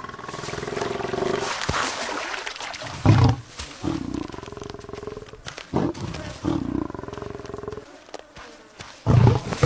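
Lion growling and snarling in several drawn-out calls, with short deep grunts about three seconds in and again near the end.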